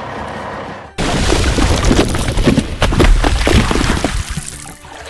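Sudden loud crash sound effect about a second in: a heavy boom with clattering, breaking impacts that die away over a few seconds. It is an animated truck's crash. A steady noisy hum comes before it.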